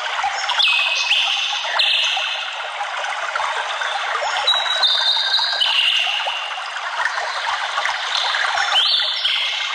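Water running steadily, like a forest stream, with high bird song coming and going over it several times.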